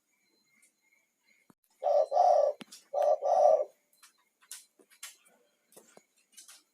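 Spotted dove (tekukur) cooing: two coos in quick succession, each of two low notes, the second note longer. Faint scattered clicks follow.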